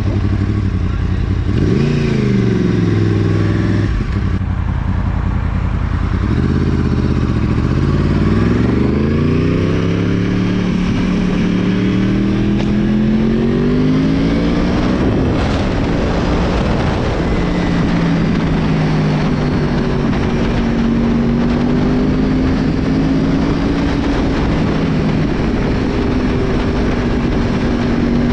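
Small moped engine under way. It revs up about a second and a half in and drops off about 4 s in, then climbs steadily in pitch for several seconds as it accelerates, and settles into a near-steady cruise with slow rises and falls.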